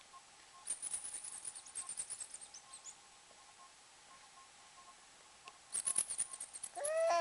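Two spells of rapid, high-pitched clicking squeaks, one about a second in and one near the end. Just before the end a baby lets out a rising vocal squeal.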